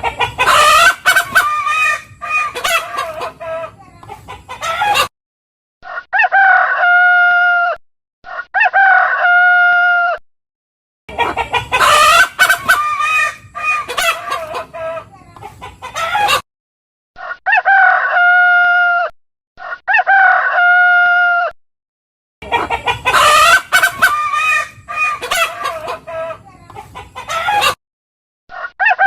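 Chickens clucking and a rooster crowing in a sequence that repeats about every eleven seconds. Each round is about five seconds of busy clucking and calling, followed by two long, steady crows.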